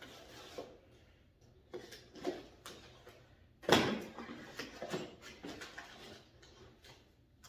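Parts being handled on a workbench: a handful of short knocks and clatters, the loudest about three and a half seconds in.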